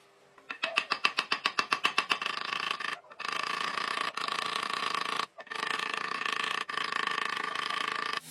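A workshop power tool working steel. It opens with a rapid run of sharp strikes, about a dozen a second, then settles into a steady whine that cuts off briefly several times.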